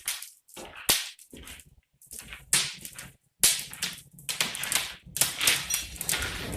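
Wood fire crackling in the open firebox of a brick fireplace: irregular sharp pops and cracks, some in quick clusters, with a couple of brief lulls.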